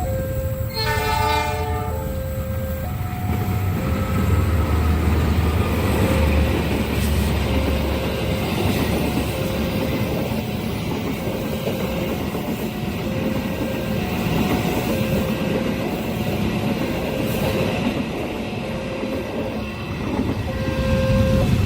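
Train horn sounding once for about a second near the start, then a train running past, its wheels rumbling and clacking over the rails. Under it the level-crossing alarm keeps sounding its two alternating tones.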